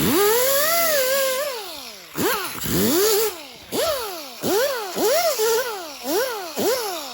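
A handheld power tool's motor is revved up and down over and over as the trigger is squeezed and let off, its pitch rising and falling about once every 0.7 seconds over a steady hiss.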